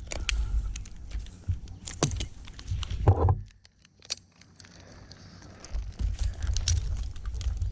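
Wind buffeting the microphone with a low rumble, and scattered sharp clinks of metal climbing gear. It goes almost quiet for a couple of seconds a little past midway.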